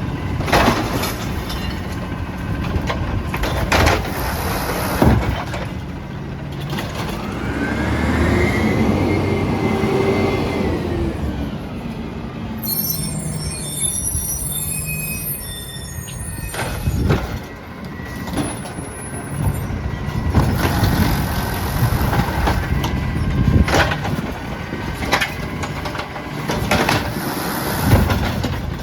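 Peterbilt 320 garbage truck at work: the engine runs and revs up and back down once, with repeated sharp bangs and clanks. A burst of air hiss comes about halfway through.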